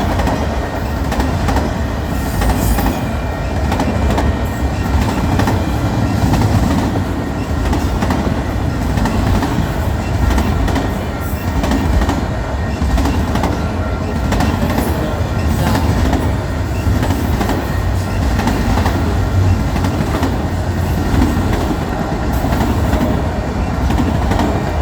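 Union Pacific freight train passing close by: a loud, steady rumble of rolling freight cars with the wheels clattering over the rail joints and a faint thin wheel squeal.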